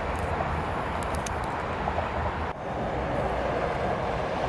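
Approaching electric trains, a steady running rumble. It is broken by an abrupt cut about two and a half seconds in, after which a second train headed by an electric locomotive is approaching.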